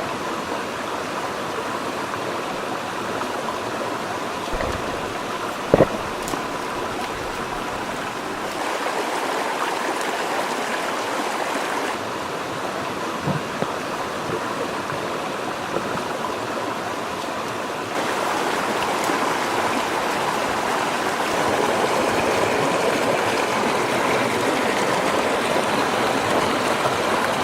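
Steady rush of flowing river water, with one sharp knock about six seconds in.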